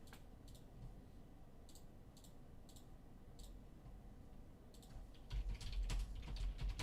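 Computer clicking, as of a mouse and keyboard: a few scattered clicks, then a quicker run of clicks with some low knocks near the end.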